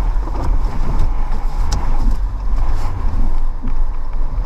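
Blizzard wind gusts buffeting the microphone: a loud, heavy low rumble with a rushing hiss over it.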